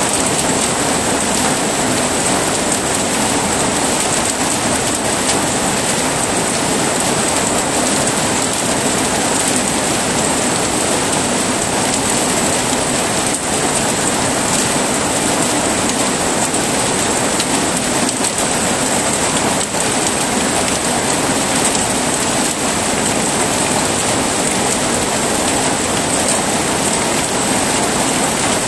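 Heavy rain falling steadily, an even, unbroken hiss of rain with no distinct thunderclaps.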